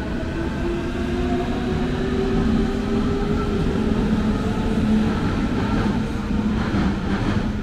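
Berlin S-Bahn electric train pulling away, its motor whine rising in pitch and then holding steady over the running rumble, with a few knocks near the end.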